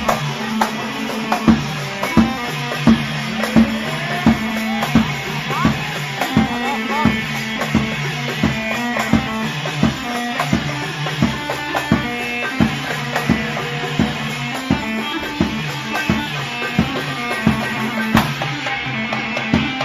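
Live band music with a steady drum beat and a melodic instrument over sustained chords.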